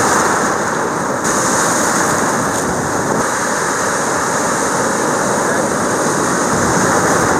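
Atlantic Ocean surf washing in steadily, a continuous rush of breaking waves, with some wind buffeting the microphone.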